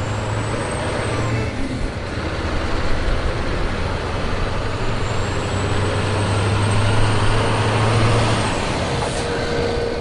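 A truck engine running steadily, with a constant low hum under a heavy rushing noise. A faint high whine glides briefly near the start and again through the second half.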